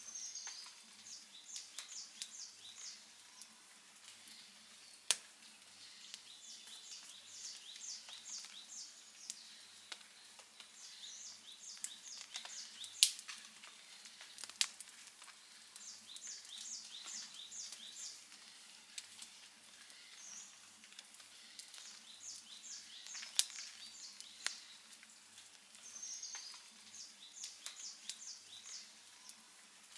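Campfire crackling steadily, with a few sharp loud pops about 5, 13 and 23 seconds in.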